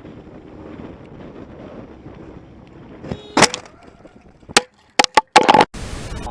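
A low steady rumble, then about three seconds in a run of loud, sharp bangs and crunching impacts, five or so within two and a half seconds, ending in a short burst of hiss.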